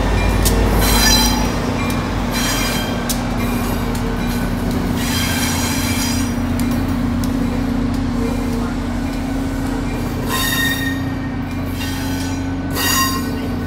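Shore Line East passenger train rolling slowly past, its EMD GP40-3H diesel locomotive giving a steady drone under the rumble of the cars, while the wheels squeal briefly on the rails about five times.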